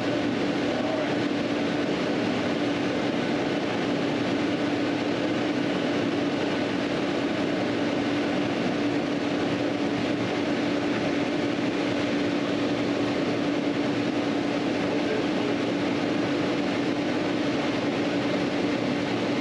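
A steady machine hum with an even hiss, holding one constant tone and never changing in level.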